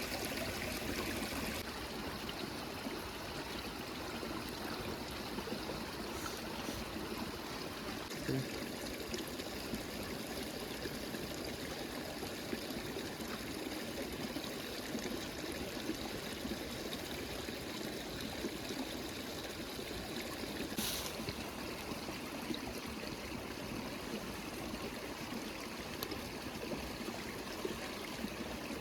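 River water flowing in a steady rushing stream, with a brief knock about eight seconds in.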